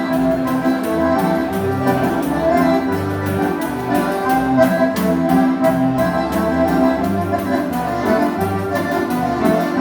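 Live accordion-led gaúcho dance music in an instrumental passage: the accordion holds and moves through sustained chords and melody over a rhythmic bass line and a steady percussion beat.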